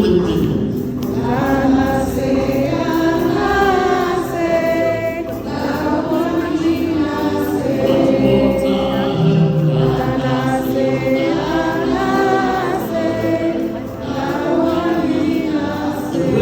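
Music with a group of voices singing together like a choir, in a gospel style.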